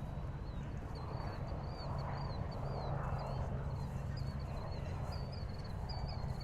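Harbor-side evening ambience: a steady low hum, a rushing background that swells and fades every second or two, and a run of short, high chirps repeating throughout.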